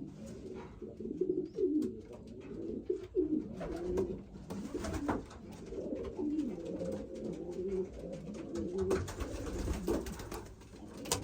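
Many pigeons cooing together in a loft, overlapping low warbling calls throughout, with scattered clicks and a few brief rustling noises.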